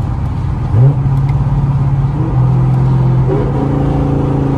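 A 2016 Camaro SS's 6.2-litre V8 engine and exhaust drone steadily, heard inside the cabin while it cruises at highway speed. About a second in, the pitch briefly rises.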